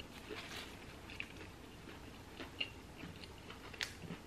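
A person chewing food close to the microphone, with small scattered mouth clicks and a sharper click near the end.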